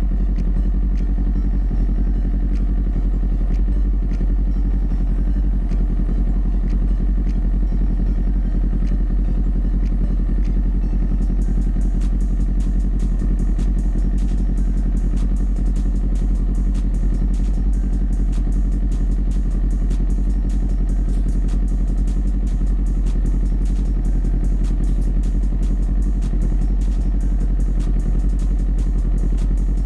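Sport bike running steadily under way, with a heavy, even low rumble and faint clicking throughout.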